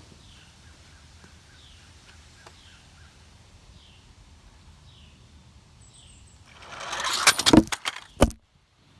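A heavy radio-controlled truck hitting the ground: a swelling rush of noise about six and a half seconds in, then several hard knocks and thuds, and the sound cuts off abruptly. Before that, a bird repeats a short falling chirp over quiet outdoor background.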